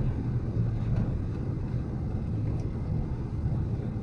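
Steady low rumble of a four-wheel-drive vehicle's engine and road noise while driving.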